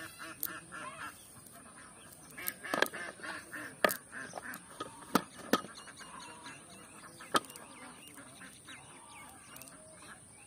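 Birds calling in short repeated runs, busiest in the first half, with about six sharp knocks scattered through, the loudest one a little under four seconds in.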